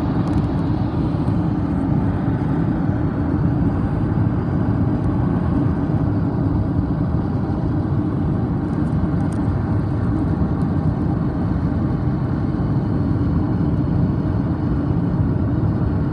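A car driving along at a steady speed: even engine and road noise with a constant low hum throughout.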